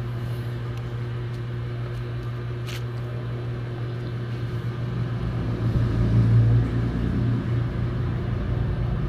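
Steady low mechanical hum, growing louder for a second or so about six seconds in.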